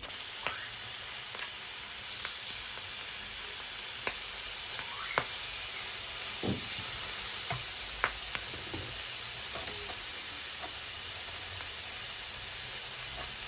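Food frying in a pan with a steady sizzle, with a few light knocks and taps of a utensil stirring it.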